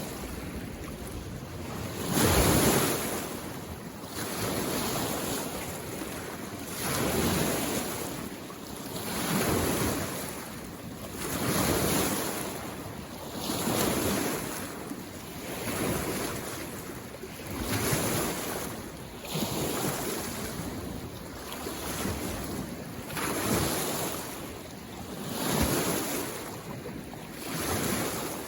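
Small lake waves washing onto the shore, one surge about every two seconds.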